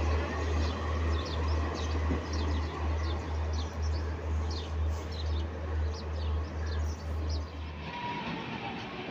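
The last old ICF passenger coaches of a train rolling past and away, a steady low rumble with a regular pulse, while birds chirp in short high notes over it. Near the end the sound cuts to a quieter, different station background.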